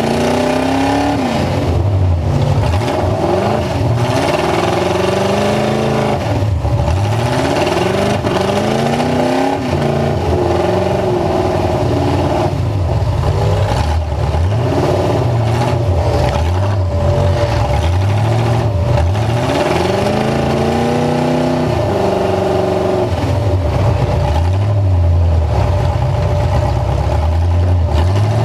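Full-size truck engine revving hard again and again, its pitch climbing and dropping every second or two.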